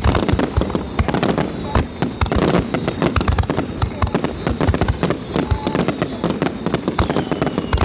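A fireworks display: a rapid, dense volley of shell bursts and crackling bangs, one after another without a break. A faint high whistle slowly falls in pitch through it.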